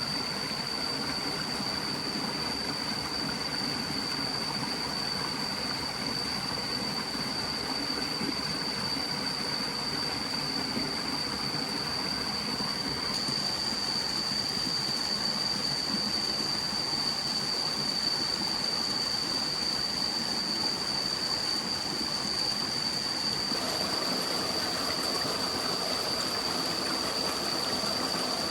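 Steady rush of a flowing forest stream, with a constant high-pitched whine held over it.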